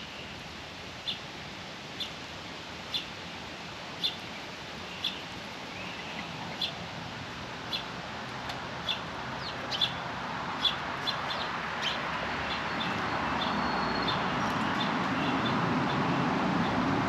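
A small bird at a feeder repeating a short, sharp chirp about once a second, with a few quicker notes mixed in. Under it is a steady rushing noise that grows louder in the last few seconds.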